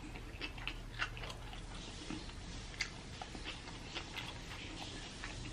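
Faint, close-miked chewing of a crispy fried birria taco: soft, irregular crunches and mouth clicks, a few each second.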